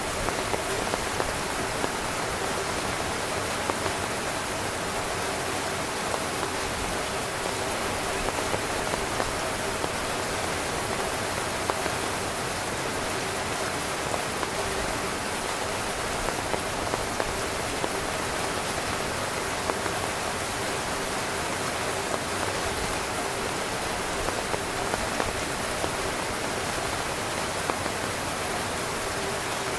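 Heavy rain drumming steadily on a tent's fabric, a dense hiss of drops with frequent sharper individual drop ticks.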